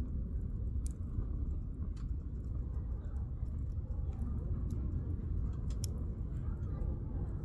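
Firewood burning in a campfire, crackling with sharp scattered pops, over a steady low rumble.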